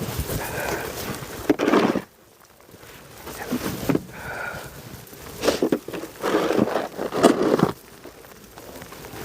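Snow shovel scraping and scooping snow in several irregular strokes, with footsteps crunching in the snow between them.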